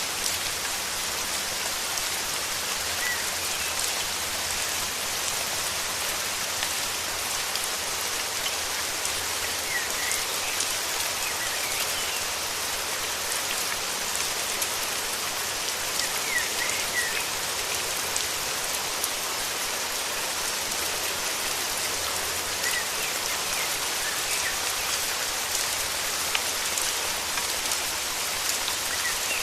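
Steady rain falling as an even hiss, with a few faint, short bird chirps now and then, most clearly around ten and sixteen seconds in.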